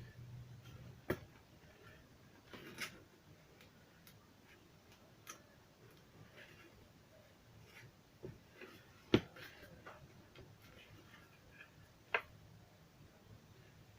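Scattered sharp clicks and taps of small tools and plastic parts being handled while working inside an opened portable Bluetooth speaker, about six in all, the loudest about nine seconds in.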